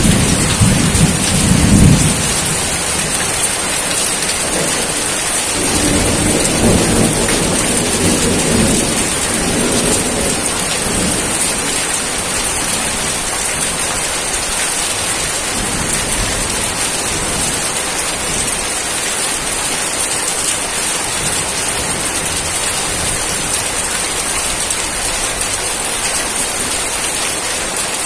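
Steady heavy rain with low rolls of thunder, one in the first two seconds and a longer one a few seconds later, that die away, leaving only the rain.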